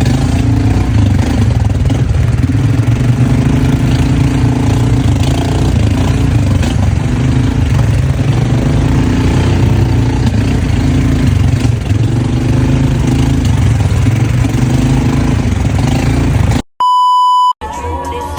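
An engine runs loud and steady with a heavy low rumble. Near the end it cuts out and a single electronic beep sounds for about a second.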